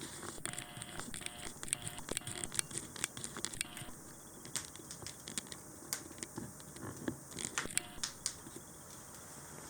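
Wood fire crackling in a fireplace, with irregular small pops and snaps, busiest in the first four seconds and again near eight seconds.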